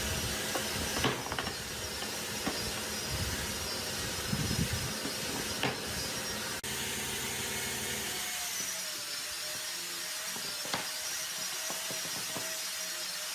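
A power tool working wood, running steadily with a hissing noise and occasional knocks; a wavering whine joins in after a brief cut about halfway through.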